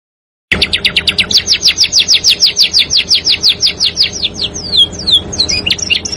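Songbird song, a fast, even roll of downward-sliding whistled notes at about six a second, starting about half a second in and breaking into a few varied chirps near the end.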